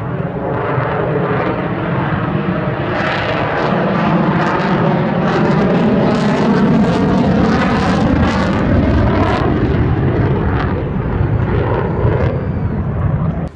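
Airplane flying past at an air show, a loud, steady roar that swells toward the middle and then cuts off abruptly near the end.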